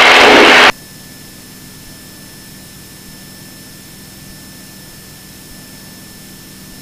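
Cessna 172's engine and cabin noise in a climb, a steady drone with a faint constant hum, after a voice cuts off abruptly under a second in.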